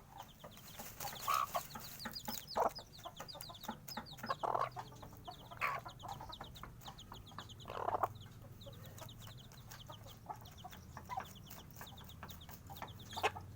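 Domestic chicks peeping over and over in short, high, falling cheeps, with a hen giving a few clucks and some short clicks in between.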